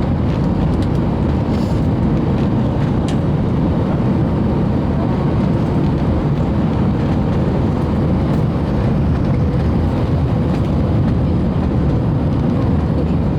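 Steady low rumble inside the cabin of an Airbus A321 from its engines and motion, even throughout with no change in level.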